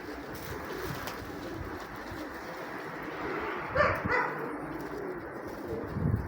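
Nikolaev pigeons cooing steadily, a low wavering call, with one brief louder sound about four seconds in.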